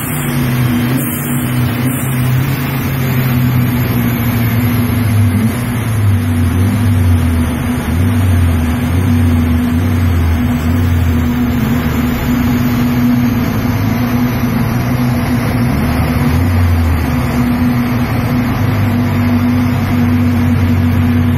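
Saab B204 2-litre four-cylinder engine in a Mazda RX8 running steadily at low revs on a chassis dynamometer, with a faint high whine that falls slowly in pitch over most of the clip.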